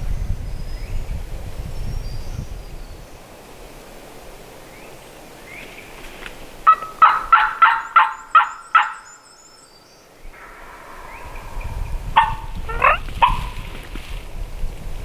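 Wild turkey gobbling: a loud run of about eight quick notes a little past the middle, then two or three more sharp notes near the end. Wind gusts on the microphone at the start and end.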